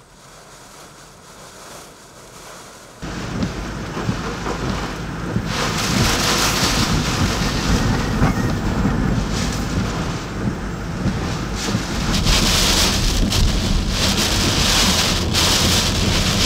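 Hurricane-force wind and driving rain, with gusts buffeting the microphone. Fairly quiet at first, it jumps abruptly loud about three seconds in and surges louder in gusts after that.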